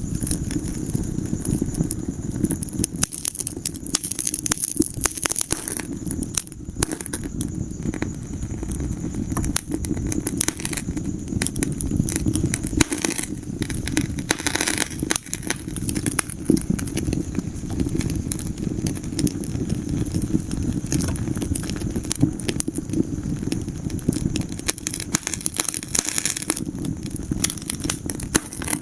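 Wood fire burning in a fireplace: a steady low rumble of flames with dense, irregular crackling and popping throughout.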